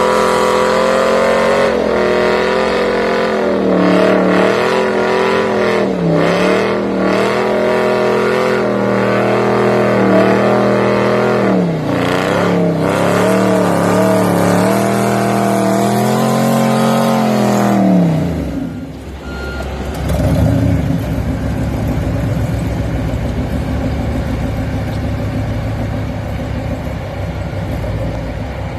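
An 8.1-litre Vortec V8 truck engine held at high revs, its pitch dipping and recovering several times, as it strains to pull a trailer up a hill. About eighteen seconds in the revs fall away quickly, and a low rumble follows.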